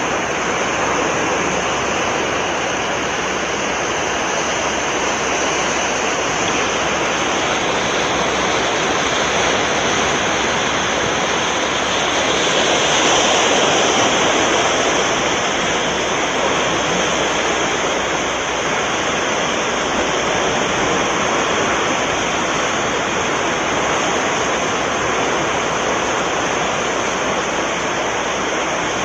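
Sea waves washing on the shore, a steady rush that swells into a louder surge about halfway through.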